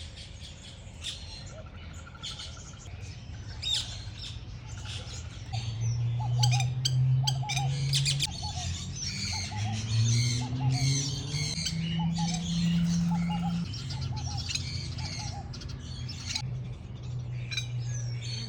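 Many birds chirping and calling together, with a call of short paired notes repeated over and over in the middle. Under them runs a steady low hum that steps up and down in pitch.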